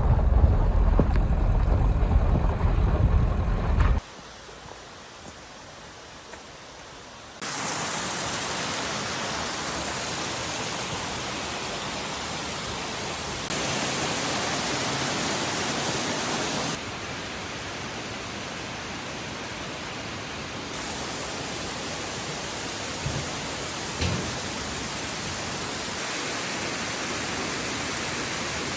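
Low wind rumble on the microphone for the first few seconds, then a steady, even rushing hiss like falling or running water, jumping up and down in level at several cuts.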